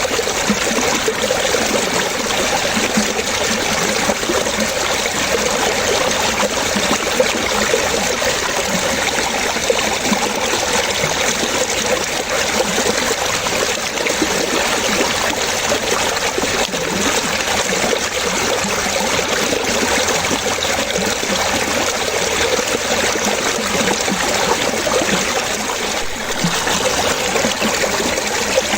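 Running water trickling and splashing steadily, like a small stream, with no pauses or changes.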